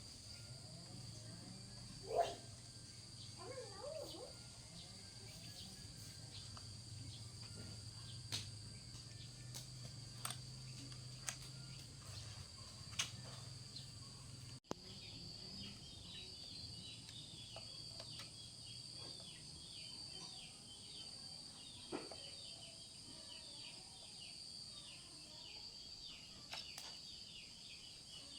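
Steady, shrill outdoor insect chorus with scattered light clicks and knocks. From about halfway, a dense run of quick chirps joins in.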